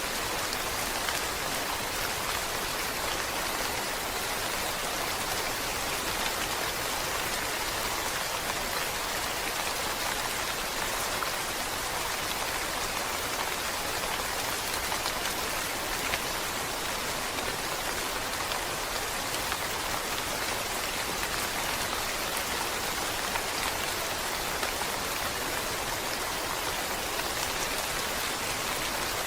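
Steady rainfall, an even hiss of many drops falling on a surface, with no change or break.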